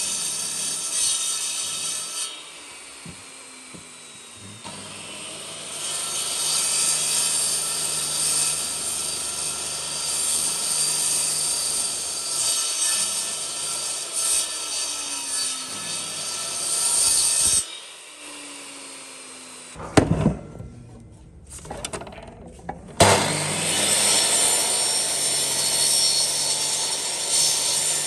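A power tool's motor running steadily while it cuts into wood, a loud hissing, rasping cutting noise that eases off twice. During the second lull there are two sharp knocks, and then the cutting starts again.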